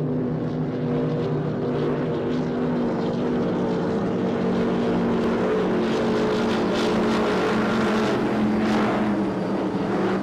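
Offshore racing powerboat engines running steadily at speed, a constant engine drone with a hiss that swells between about six and nine seconds in.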